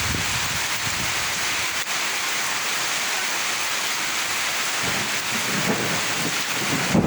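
Steady heavy rain falling: an even hiss, with a low rumble underneath at the start and again from about five seconds in.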